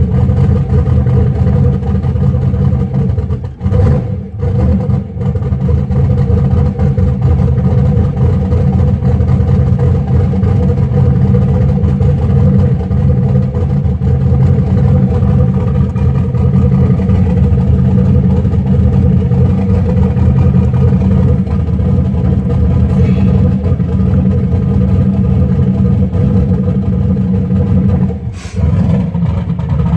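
Turbocharged LS V8 engine running steadily at idle, fuelling rich. Its sound dips briefly a few times, around four seconds in and again near the end.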